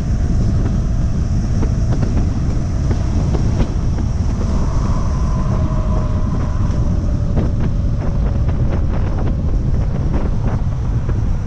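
Heavy wind buffeting on the microphone with road noise while riding an electric moped at about 47 mph. A faint whine shows up about halfway through, sliding slightly lower.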